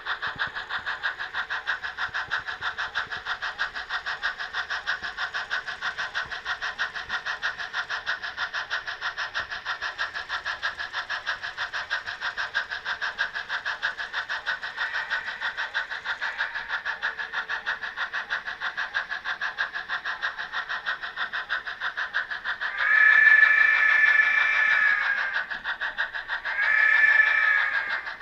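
Sound-equipped On30 model Shay steam locomotive chuffing quickly and evenly, about five chuffs a second. Near the end its whistle blows twice: one long blast and then a shorter one.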